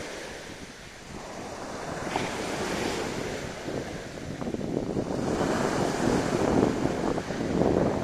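Sea waves breaking and washing on the shore, with wind buffeting the microphone. The surf swells about two seconds in and again around five seconds.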